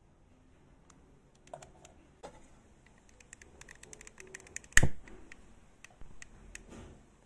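Scattered light clicks and taps, irregular, with one sharp loud knock about five seconds in.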